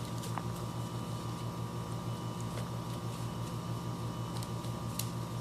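Steady background hum with a faint, even pulsing, and a few faint clicks.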